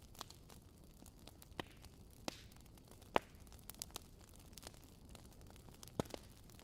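Wood fire crackling in a fireplace: a low, steady hiss with scattered sharp pops, the loudest about three seconds in and another near the end.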